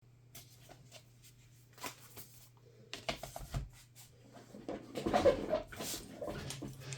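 Scattered light clicks and knocks of objects being handled on a work surface, with a louder clatter about five seconds in, over a steady low hum.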